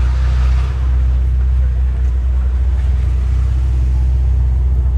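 A car engine idling, a steady low rumble that holds without revving. Faint voices are heard in the first second.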